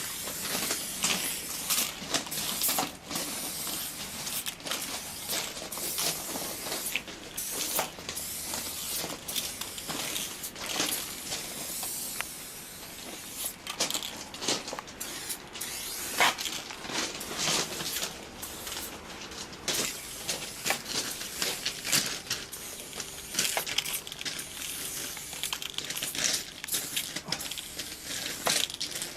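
Aerosol spray paint cans hissing in a run of short and longer bursts, some overlapping.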